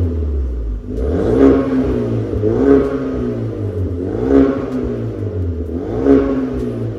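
Ford Kuga EcoBoost 250 ST-Line's turbocharged four-cylinder engine, heard through an MS-R valved cat-back exhaust, revved four times in a row, the pitch climbing and falling back each time.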